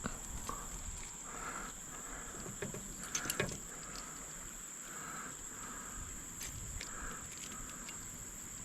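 Steady high-pitched chorus of insects, like crickets, with a few sharp knocks about three seconds in.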